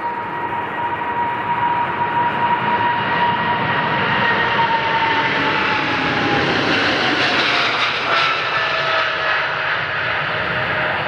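Jet airliner passing close by, its engines a loud roar with a whine that drops in pitch as it goes past.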